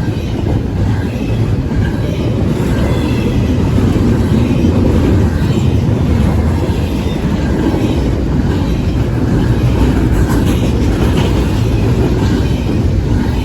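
Cars of a double-stack intermodal freight train rolling past: a loud, steady rumble of steel wheels on rail.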